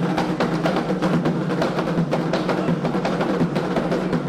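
Candomblé ritual drumming: atabaque hand drums beating a fast, dense, steady rhythm.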